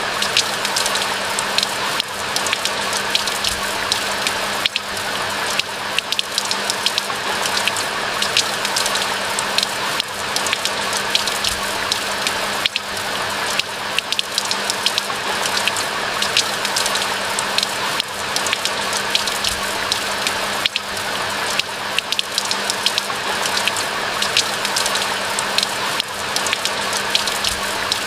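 Steady rain falling, an even hiss with many close, sharp raindrop ticks throughout. A faint low steady hum runs underneath.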